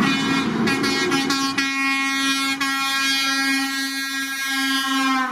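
Truck air horns blowing: a steady low horn tone, joined under a second in by a higher horn that starts with a few short blasts and is then held for several seconds. Both cut off together near the end.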